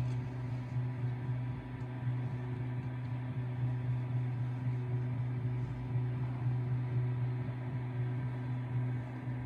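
A steady low drone tone, held unchanged, continuing from the surrounding music and carrying on under it.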